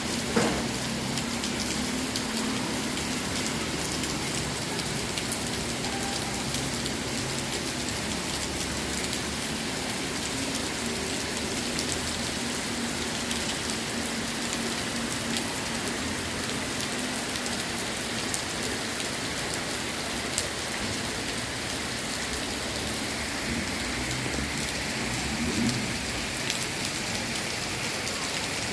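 Heavy rain falling steadily: a dense, even hiss with scattered taps of drops striking surfaces.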